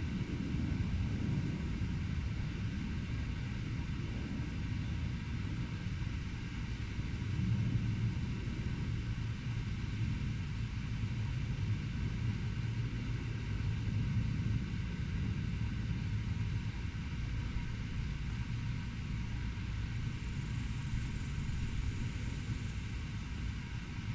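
Steady low rumble of distant road traffic, swelling slightly now and then.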